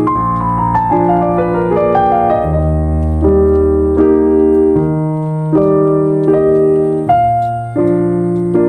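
Piano music: a falling run of notes over the first couple of seconds, then slow held chords over low bass notes.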